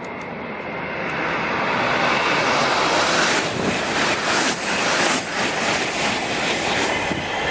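A Shinkansen bullet train rushing past at speed. The noise swells over the first couple of seconds into a loud steady rush, with a quick run of pulses as the cars and bogies go by, then cuts off abruptly near the end.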